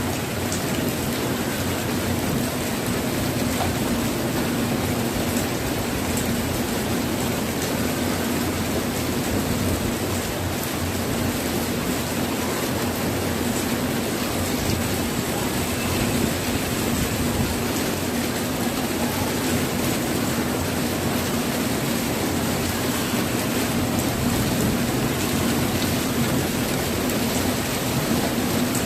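Heavy monsoon rain pouring down steadily, an even unbroken hiss with no let-up.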